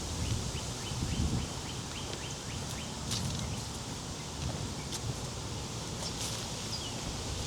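A songbird singing a quick run of short, down-slurred whistled notes, followed by a few scattered sharp chips, over low rustling in the woods.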